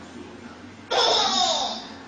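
A baby's short squealing laugh, about a second in, lasting under a second.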